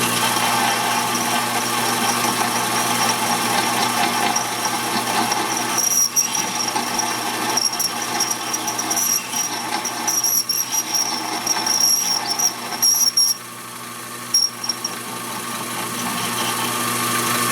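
EMCO Compact 5 bench lathe running with a steady motor hum while its tool cuts into a bolt. From about six seconds in, a high squeal from the cut comes and goes repeatedly, stops at about thirteen seconds and returns briefly once.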